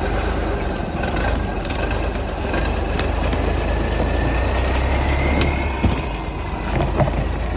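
REO M52A1 6x6 military tractor truck's engine running with a steady low rumble, a faint whine in the middle and scattered clatter.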